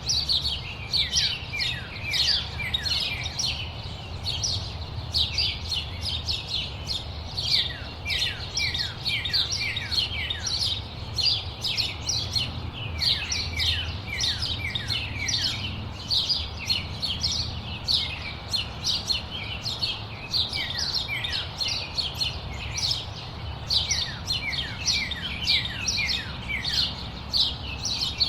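Many small birds chirping together in a dense, continuous chorus of short, quick notes that each drop in pitch, over a low steady rumble.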